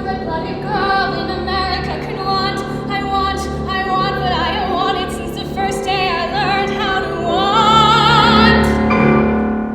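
A woman singing a musical theatre song in a classical, operatic style with piano accompaniment. Her voice wavers with vibrato and builds to a long held note near the end before dropping away.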